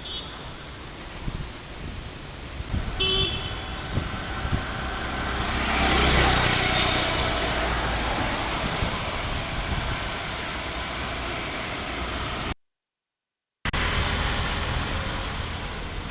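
Street traffic on a rain-hit road: a car horn toots briefly about three seconds in, and a vehicle passes close by around six seconds in. The sound cuts out for about a second near the end.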